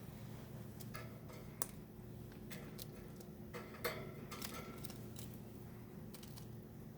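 Pet budgies making scattered small clicks and taps, a dozen or so irregular ticks with the sharpest two about a second and a half and four seconds in, over a steady low hum.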